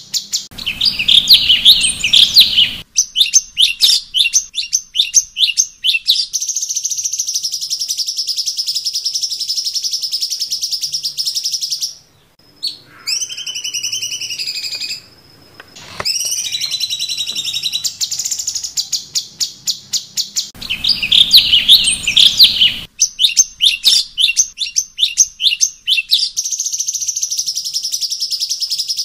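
Cucak cungkok birdsong: bursts of rapid high chirps and long, fast buzzy trills, with a few gliding whistled notes in the middle. The whole sequence starts over about twenty seconds in, as in a looped training recording.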